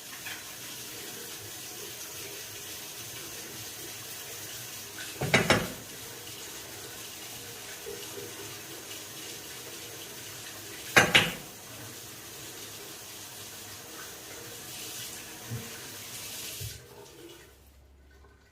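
Water running steadily from a tap as the rusty filter screen of a heating-line strainer is rinsed clean. There are two loud knocks, about five and eleven seconds in, and the water stops near the end.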